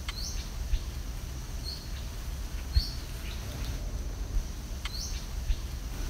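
Birds chirping outdoors: short, high, rising chirps every second or so, over a steady low rumble with a few soft thumps.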